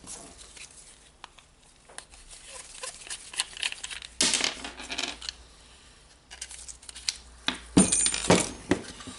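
Clicks and scraping of small metal parts being handled while carbon brushes are fitted into a rotary hammer drill's brush holders. Near the end, a burst of sharp metallic clinks with a brief high ringing, as the small metal wave washer comes loose and drops onto the work surface.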